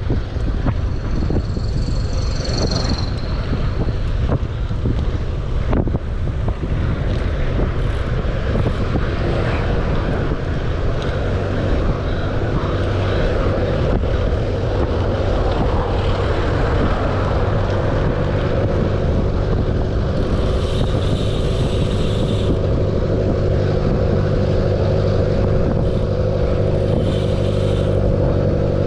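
Wind buffeting the microphone of a camera on a moving bicycle, over a steady rumble of road noise. From about halfway through, the steady hum of a motor vehicle's engine builds in alongside.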